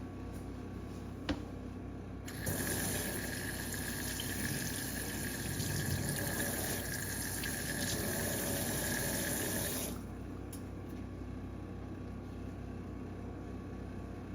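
Water running steadily for about seven seconds, starting about two seconds in and stopping suddenly near ten seconds, with a faint steady whistle in it; a single click comes shortly before.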